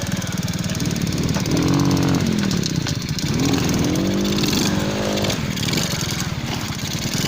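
Motorcycle engine running under way, its pitch rising and falling a few times as the throttle is opened and closed.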